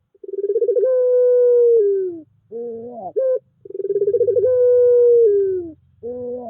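Puter pelung collared dove cooing: two long drawn-out coos of about two seconds each, each beginning with a quick flutter and dipping in pitch at the end, with short rising notes in between.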